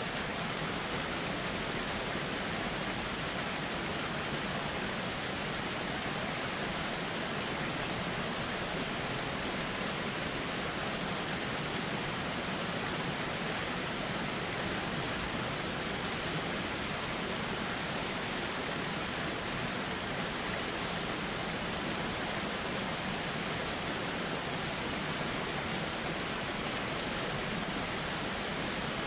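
Steady, unchanging rush of flowing river water.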